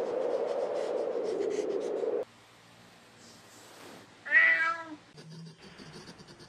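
A domestic cat meows once, a single short call about four seconds in, after a steady hum that cuts off sharply about two seconds in.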